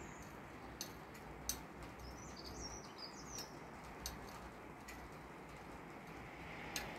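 Small birds chirping, a few short high calls in a cluster about two to three seconds in, over a steady hiss of rain. A few sharp clicks are scattered through.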